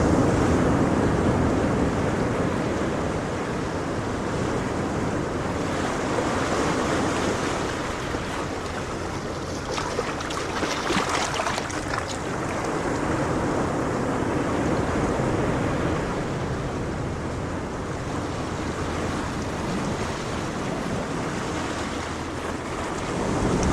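Steady rushing wind over the camera, swelling and easing, with a Polaris 500 ATV running underneath as it rides along the beach.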